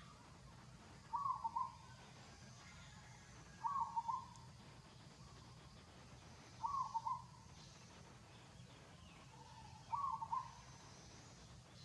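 An animal's short call, repeated four times about every three seconds, each call about half a second long, over a faint steady hum.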